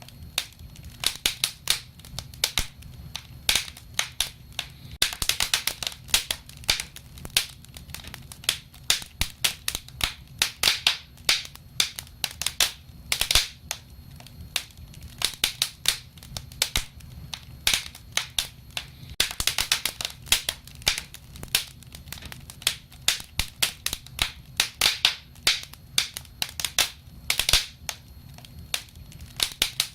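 Wood fire crackling, with many sharp pops and snaps coming irregularly, sometimes in quick clusters, over a low steady background.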